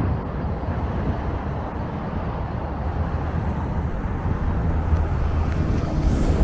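Strong wind buffeting the microphone: a steady, rumbling rush of noise that flickers in strength.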